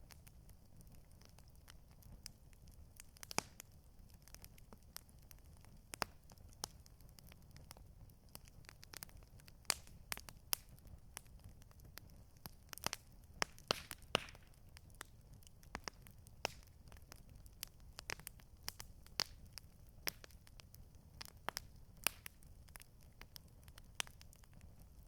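Campfire crackling, with irregular sharp snaps and pops of burning wood over a low steady rumble; a quick run of louder pops comes about halfway through.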